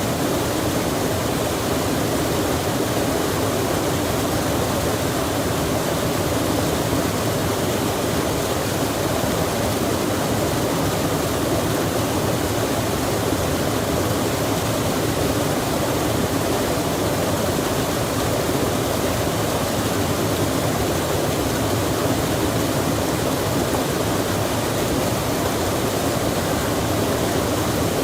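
A stream rushing steadily in the rain, an even wash of running water and falling rain with no change in level.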